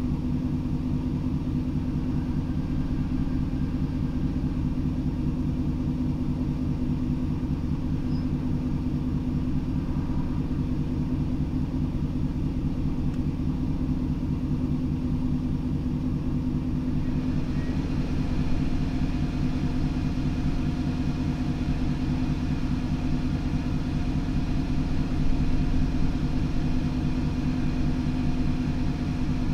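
A vehicle engine idling steadily, a low even hum that does not change. From a little past halfway a faint hiss is added higher up.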